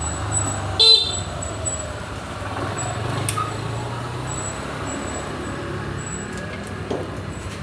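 A vehicle engine running steadily, with one short horn beep about a second in.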